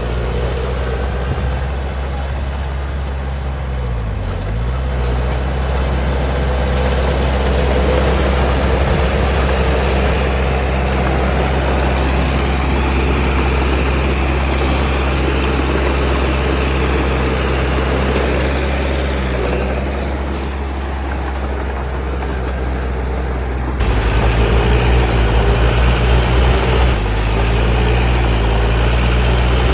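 Heavy diesel engine of earthmoving machinery running steadily, its pitch dipping briefly about four seconds in. About 24 s in, the sound changes abruptly to a louder, throbbing run.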